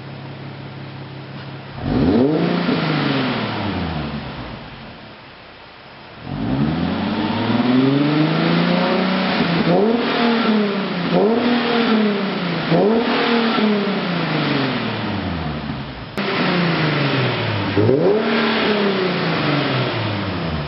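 Nissan 370Z's 3.7-litre V6 through a prototype ARK DT-S cat-back exhaust, being revved while stationary. It idles at first, then about two seconds in it revs once and slowly falls back to idle. From about six seconds in it gives a quick series of short throttle blips, roughly one every second or so.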